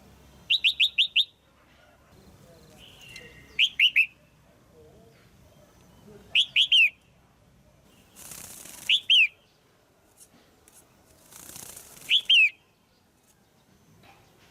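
Female red-whiskered bulbul calling: short bursts of two to five sharp, downward-slurred chirps, repeated about every three seconds. Two brief rustling hisses come just before the later calls.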